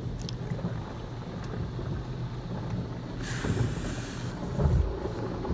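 Automatic car wash heard from inside the car: a steady low rumble, then about three seconds in a hiss of water jets spraying against the car for a second and a half, with a few low thumps near the end.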